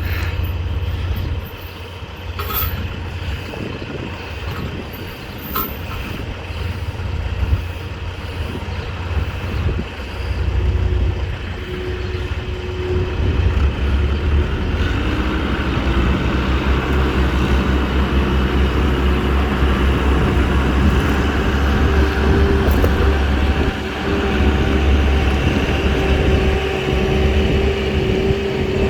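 Wheel loader's diesel engine working under heavy load, pulling harder and louder from about halfway through as it strains to drag a wrecked truck free, with a few metallic clanks early on. The truck is stuck and the loader is struggling to move it.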